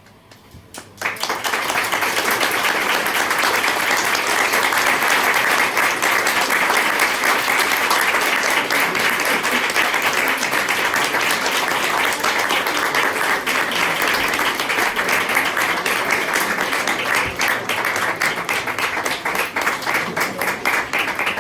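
Audience applauding, starting about a second in and holding steady, with single claps standing out more as it thins near the end.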